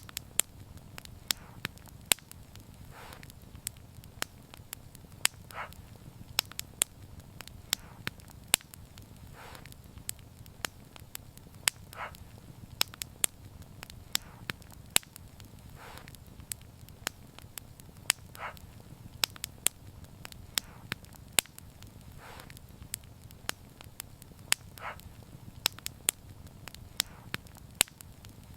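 Wood fire crackling: frequent sharp pops and snaps over a low, steady rumble of the flames, with a softer short hiss recurring about every two and a half seconds.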